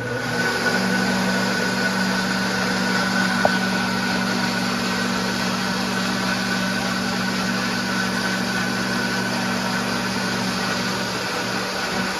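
An electric kitchen appliance running steadily, a low hum with a faint higher whine above it.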